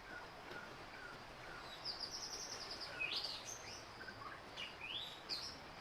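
Small birds chirping over a steady background hiss: a quick run of short high notes about two seconds in, then rising chirps.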